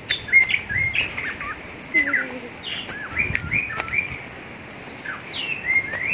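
Birds chirping and singing: many short whistled notes, rising and falling, one after another.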